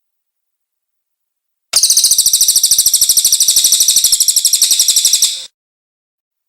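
Cililin bird song: a loud, high, fast trill of evenly spaced notes, about a dozen a second, starting about two seconds in and lasting about four seconds.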